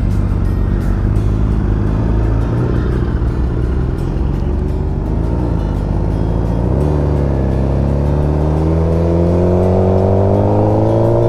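Sportbike's inline-four engine running steadily under way, then from about seven seconds in rising smoothly in pitch as the bike accelerates.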